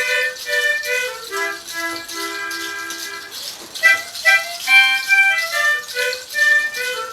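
Folk music: a flute melody of short, stepping notes over a steady rattle or shaker.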